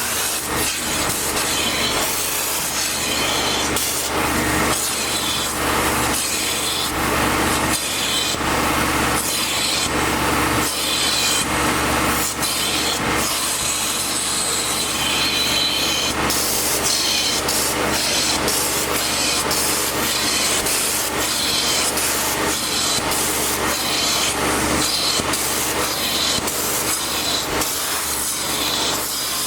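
Continuous scrubbing and rubbing from car-detailing work, with many short strokes over a steady machine hum.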